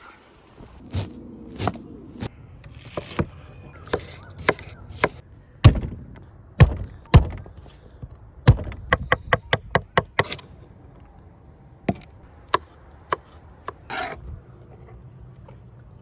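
Knife chopping on a cutting board: single sharp chops spaced out, then a quick run of about ten strokes around the middle, with a few short scrapes in between.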